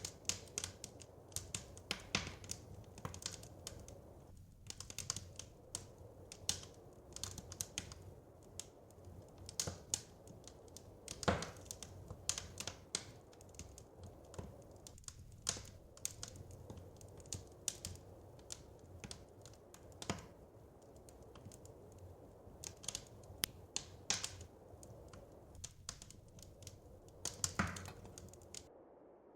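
Crackling wood fire: irregular pops and snaps, several a second and some louder than others, over a low steady rumble. The sound cuts off suddenly near the end.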